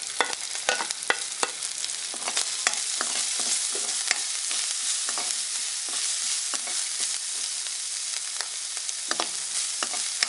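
Onion, green pea and spice masala sizzling in oil in a wok, stirred with a spoon that scrapes and clicks against the pan again and again.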